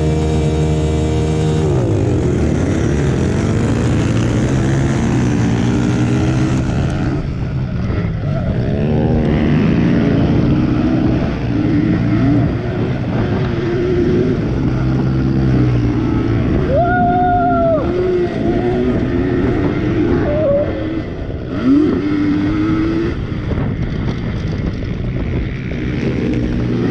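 Several Yamaha PW80 two-stroke pit bike engines racing. A steady engine note gives way about two seconds in to several engines revving, rising and falling in pitch as the bikes accelerate and back off.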